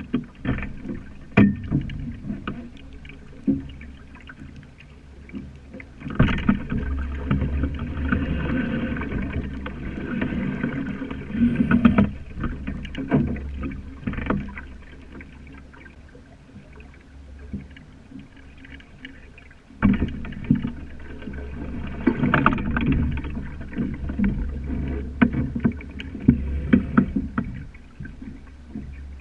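Sailing dinghy under way: water rushing and splashing along the hull with a low rumble and frequent knocks and taps, louder in two long stretches starting about six and twenty seconds in.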